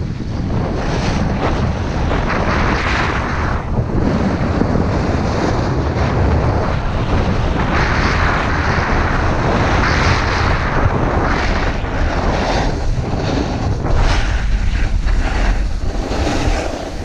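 Wind buffeting the camera microphone: a steady low rumble with swells of rushing hiss, typical of a fast ski descent.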